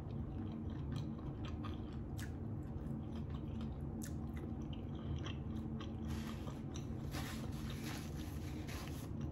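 A person chewing a mouthful of chicken and cheese quesadilla, with many small mouth clicks.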